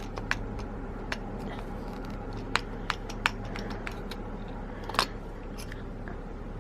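Parts of a manual coffee grinder being handled and fitted together: a few scattered light clicks and knocks over a steady low hum.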